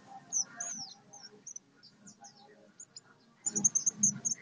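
Olive-backed sunbird (sogok ontong) singing in a series of high, thin chirps, many slurring downward, breaking into a fast run of short high notes near the end.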